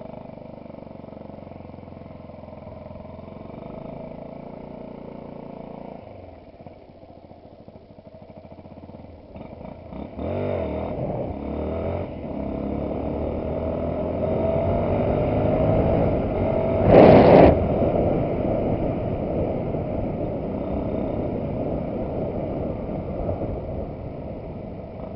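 Yamaha WR supermoto's single-cylinder engine running at low revs, then pulling away about ten seconds in, its pitch rising as it accelerates, with a brief loud burst of noise about seventeen seconds in.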